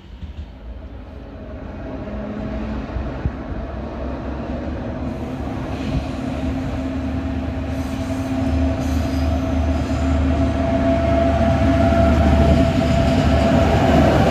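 Diesel locomotive hauling a freight train of hopper wagons past, its engine drone and the rumble of the wagons on the rails growing steadily louder as it comes near.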